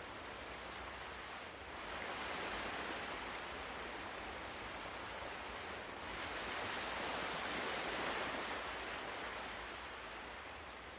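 Ocean waves washing onto a shore, with two slow swells: one about two seconds in and a larger one peaking about eight seconds in, then easing off.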